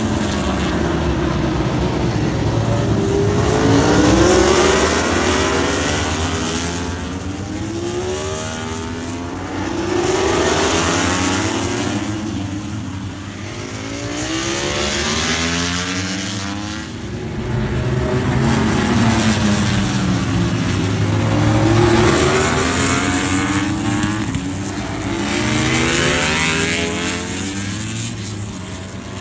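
MotoGP racing motorcycles at full speed, one after another, engines rising through the gears and dropping on downshifts in repeated waves.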